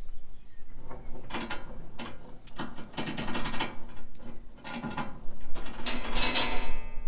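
A ratchet tie-down being cranked tight in a series of rasping, clicking strokes about a second apart, the last one near the end the loudest, as a tractor is secured to a low loader for transport.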